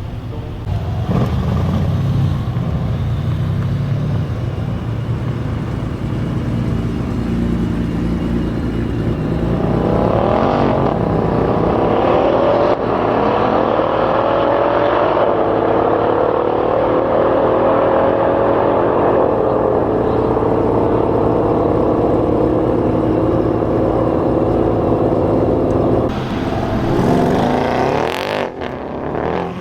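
Mercedes-AMG V8 engine running hard: its revs climb about ten seconds in, hold high with the pitch slowly sagging, fall away near the end and climb again.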